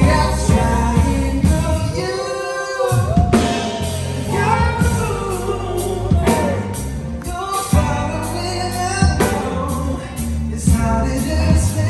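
Live band playing a slow pop-soul song with a singer's lead vocal over drums and bass. The bass and drums drop out for about a second, roughly two seconds in, leaving the voice, then come back in.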